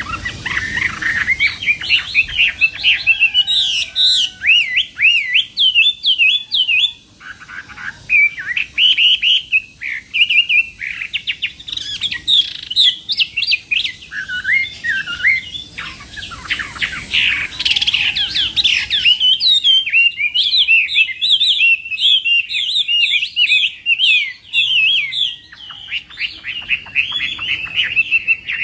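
Chinese hwamei (Garrulax canorus) singing a long, varied song of rapid whistled phrases and trills, with a short break about seven seconds in.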